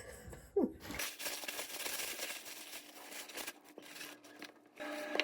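Paper towels crinkling and tearing as raw chicken drumsticks are patted dry. Background music comes in near the end.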